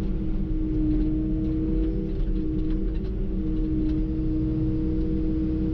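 Kubota KX080 excavator's diesel engine running steadily with a constant hydraulic whine, at an even pitch and level.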